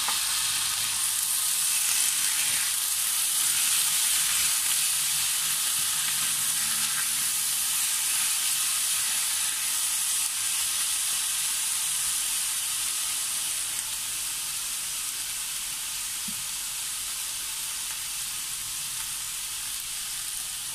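Pineapple chunks, onion, red bell pepper and green chili sizzling in hot oil in a frying pan while they are stirred: a steady high hiss that eases a little about two-thirds of the way through.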